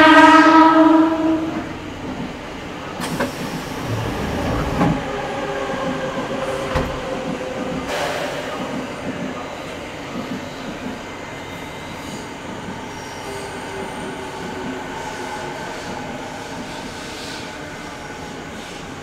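Vestibule of a 185 series electric train in motion: a loud horn-like tone for about a second and a half at the start, then the train running, with a whine from the motors and gears changing in pitch over the rumble and clatter of the wheels on the rails.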